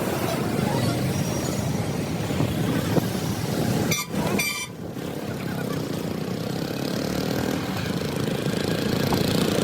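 A motor vehicle's engine running steadily, with a brief break and a few clicks about four seconds in.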